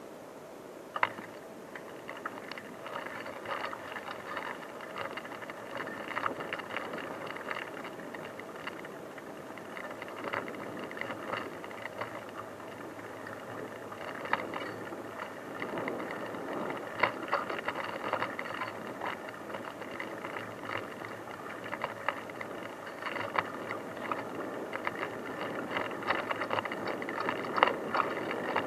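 Bicycle being ridden over a rough unpaved track: steady rolling noise with frequent rattles and clicks from the bike as it jolts over the ground.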